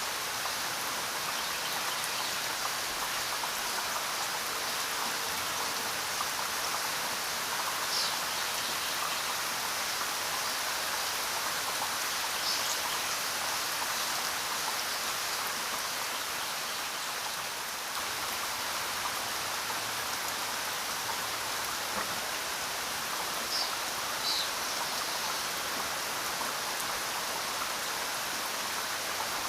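Steady rainfall, an even hiss of rain with no break, with a few brief high-pitched sounds scattered through it.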